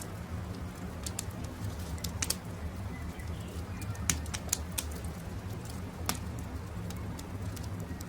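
Wood campfire crackling, with irregular sharp pops clustered around two, four to five and six seconds in, over a steady low rumble. Faint bird chirps come in briefly near the middle.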